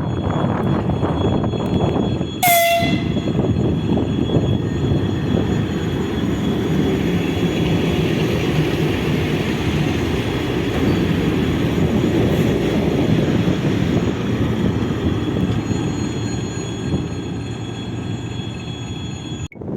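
A train running through a railway station with a steady rumble, and a short blast of its horn about two and a half seconds in.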